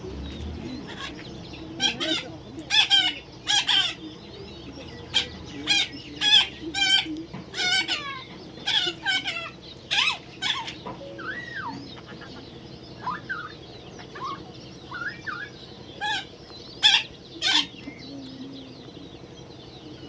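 A parrot giving a long series of short, harsh squawks, some in quick pairs, with softer whistled glides in between near the middle.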